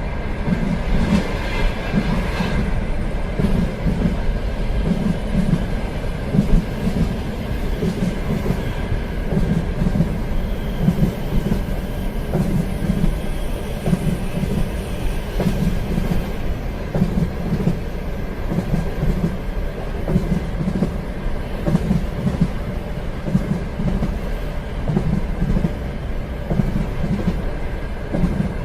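Train running on rails, its wheels clacking over the rail joints in a steady, even rhythm over a continuous rumble.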